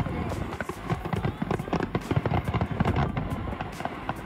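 Many aerial fireworks shells bursting at once in rapid succession, a dense run of overlapping bangs and crackles.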